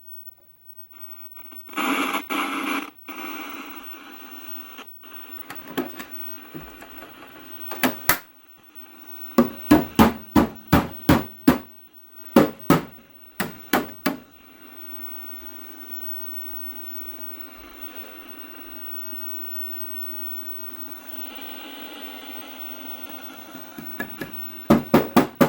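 Old CRT television's speaker hissing with static, broken by several runs of sharp clicks, a few a second.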